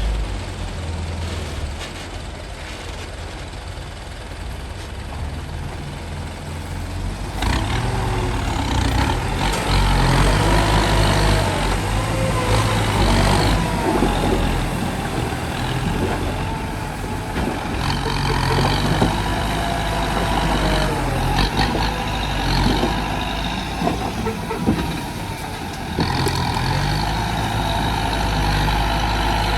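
Dump truck's diesel engine running, louder from about seven seconds in, its pitch rising and falling.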